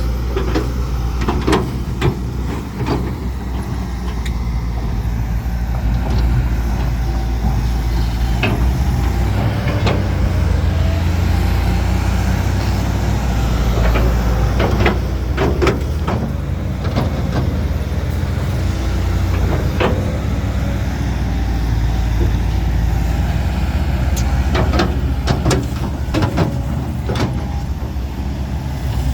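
Heavy diesel earthmoving machinery working in sand: a steady low engine drone with frequent sharp metallic clanks and knocks.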